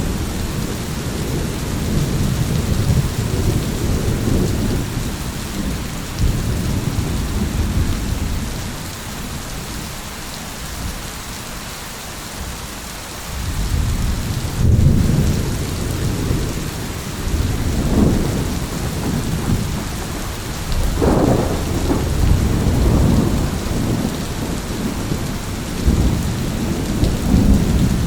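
Thunderstorm: steady rain with rolling thunder. The rumbling eases off for a few seconds, then comes back stronger about halfway through, with sharper claps at about 18 and 21 seconds.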